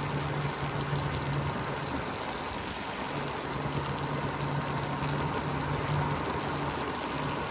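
Segway being ridden along a road: a steady low motor hum that drops in and out, under a constant rush of wind and road noise.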